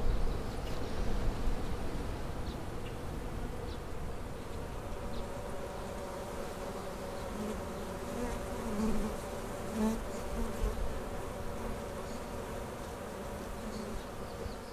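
Swarm of honeybees buzzing as a steady hum of many wings, with single bees flying close past the microphone a few times around the middle.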